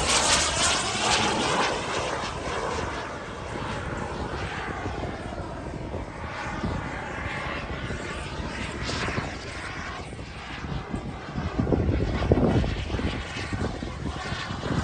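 Radio-controlled model airplane's engine running in flight, its pitch sweeping up and down as it passes overhead. It is loudest at the start and again about twelve seconds in.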